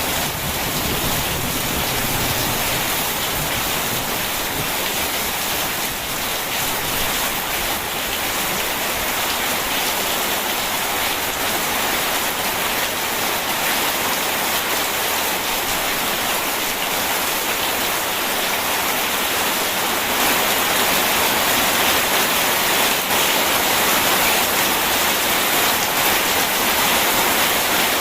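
Steady rain, an even hiss with no break, as a low thunder rumble dies away at the very start.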